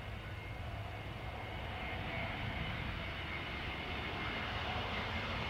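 Aircraft engines running with a steady rumble and a faint whine, slowly growing louder as the plane comes closer.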